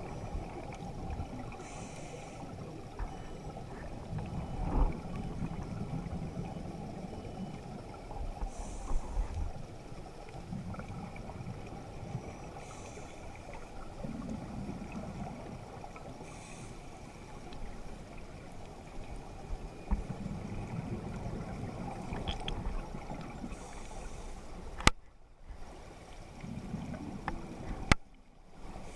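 Underwater sound of a scuba drift dive: current and water rushing past with low gurgling, and bursts of divers' exhaled regulator bubbles hissing every few seconds. Two sharp clicks near the end, each followed by a short drop in sound.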